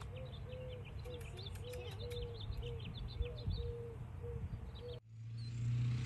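Birds chirping outdoors: many short, high chirps together with a short, low call repeated about twice a second, over a steady low hum. The background sound changes abruptly about five seconds in.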